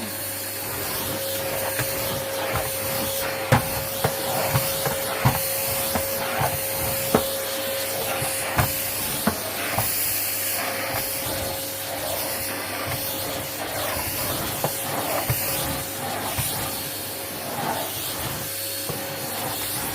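John Lewis 1.5-litre vacuum cleaner with a 700 W motor running over carpet: a steady motor whine with the hiss of suction. Sharp ticks and knocks come through, most of them between about 3 and 9 seconds in.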